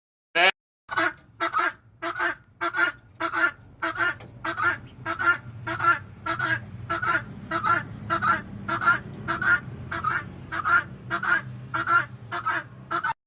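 A bird giving short, repeated honking calls, about two a second, over a low steady hum that starts about a second in.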